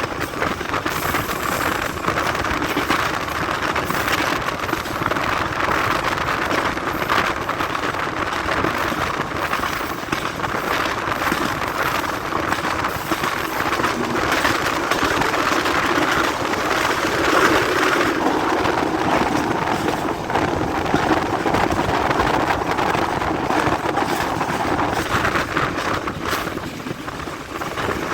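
Express passenger train running along the track: a steady rumble with dense rattling and clatter from the wheels and carriage.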